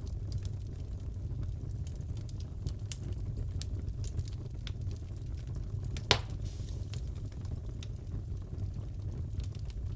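Fire in a fireplace crackling: a steady low sound of the flames under scattered small pops, with one louder pop about six seconds in.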